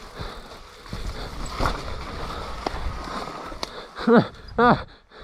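Mountain bike riding through wet mud: tyres splashing and spattering, with sharp knocks and rattles from the bike over the rough track. Two short shouts near the end.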